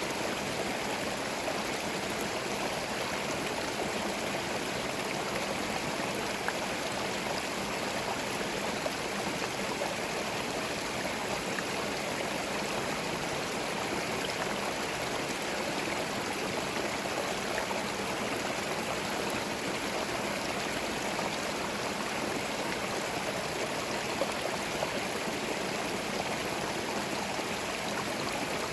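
Small forest stream flowing over stones, a steady rush of water with fine babbling and trickling detail, unchanging throughout.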